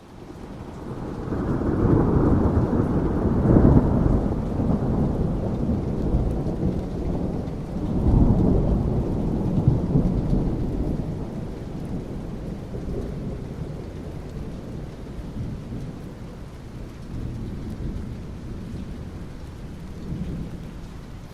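Rolling thunder over steady rain. A long deep rumble builds over the first couple of seconds, swells again about eight seconds in, then slowly dies away, leaving the rain.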